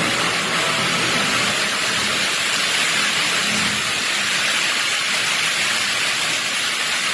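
Torrential tropical-cyclone rain pouring down, a steady even hiss.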